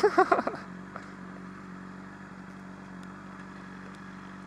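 Honda CBR600RR inline-four engine running at a steady cruise, with wind noise on the rider's helmet microphone.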